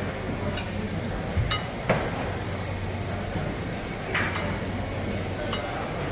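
Busy restaurant dining hall: a steady din of crowd chatter with dishes and glasses clinking several times.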